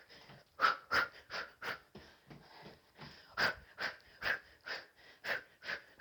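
Sharp, forceful exhales through the mouth in time with a run of elbow strikes and uppercuts: about two or three short breaths a second, easing briefly about two seconds in before picking up again.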